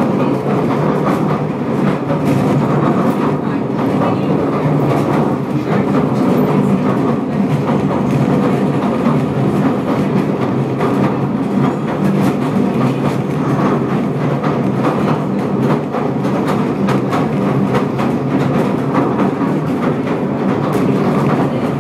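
The Southend Pier train running along the pier track, heard from aboard: a steady rumble with many light clicks from the wheels and rails.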